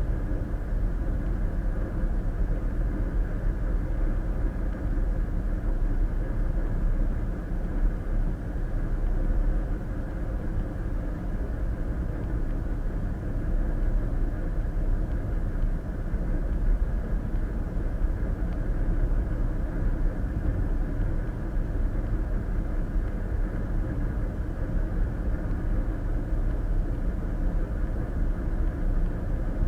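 Steady road noise of a car cruising on the interstate, heard from inside the cabin: a constant low rumble of tyres and engine.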